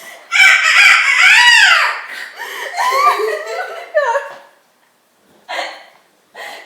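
Young women laughing hard, high-pitched laughter with sweeping pitch in a loud first bout, a second bout a few seconds in, and a short burst near the end.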